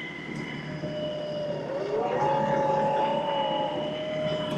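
LS XR315 compact tractor running under load while its front grapple pulls a big bite of cattails, with a steady mechanical whine; a second, higher whining tone joins about two seconds in and fades near the end.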